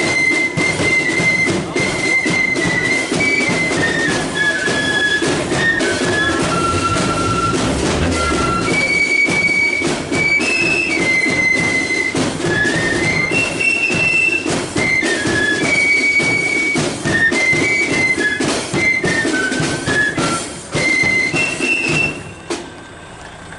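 Marching flute band playing a tune: flutes in unison carry a stepping, high melody over steady drum beats. The playing falls away shortly before the end.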